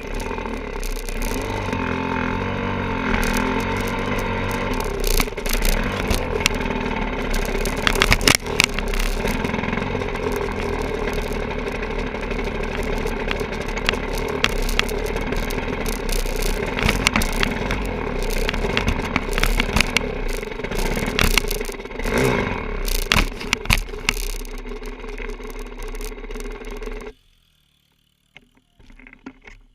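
Enduro dirt bike engine running steadily under way, with frequent clattering knocks and scrapes over it. The sound cuts off abruptly near the end.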